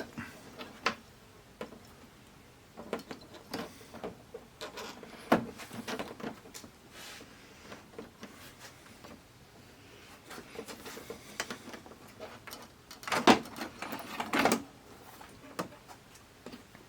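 Irregular clicks, taps and knocks from handling the parts of an LCD TV being reassembled, with a louder cluster of knocks near the end.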